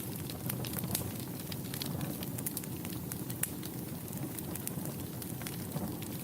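Wood fire in a fireplace crackling: a steady low rumble of flames under frequent irregular sharp pops and crackles, with one louder pop about three and a half seconds in.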